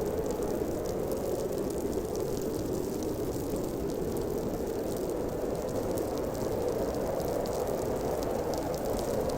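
Blizzard wind blowing steadily: a dense, even rushing noise that swells and eases gently, with faint light ticks high above it.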